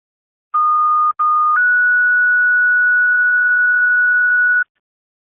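Two-tone sequential paging alert on a fire dispatch radio channel, the tone-out that alerts companies before a dispatch. A steady tone sounds for about a second, with a brief dropout, then steps up to a slightly higher steady tone for about three seconds and cuts off sharply.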